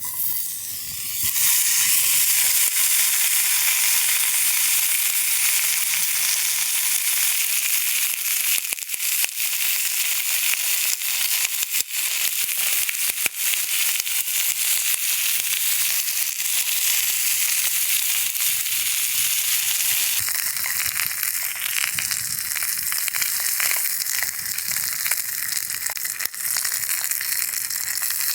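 Food frying in a hot pan: a steady loud sizzle with scattered small pops and crackles.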